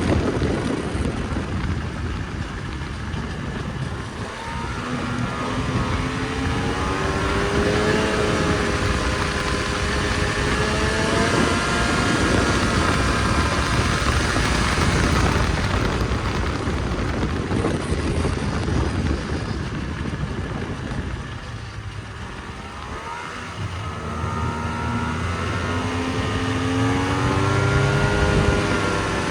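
Snowmobile engine running under throttle, climbing in pitch twice as it speeds up, over a steady rush of wind and track noise.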